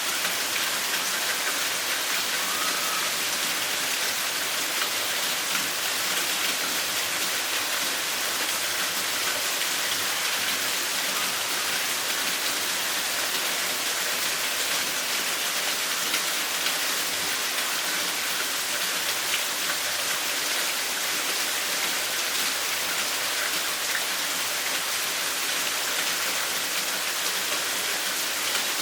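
Steady heavy rain falling, a dense even hiss with the patter of drops on surfaces.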